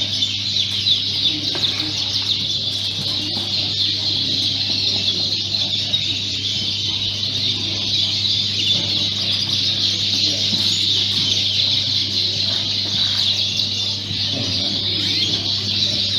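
Many caged Fife canaries chirping and singing at once: a dense, continuous high twittering with no single bird standing out, over a steady low hum.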